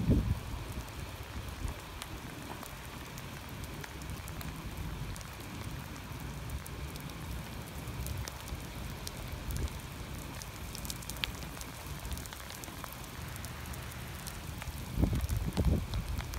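Steady light rain pattering on wet stone paving, with many small drop ticks. Low rumbling surges on the microphone near the end.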